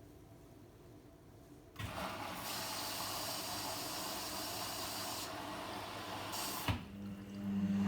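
Logik L712WM23 washing machine taking in water: a loud hiss of water spraying in through the inlet valve starts about two seconds in and lasts about five seconds. It ends with a click, and a steady low hum of a pump or motor starts.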